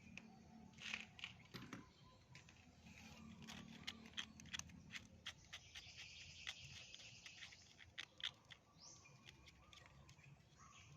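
Faint scattered clicks and light scraping from small engine parts being handled and cleaned of dirt.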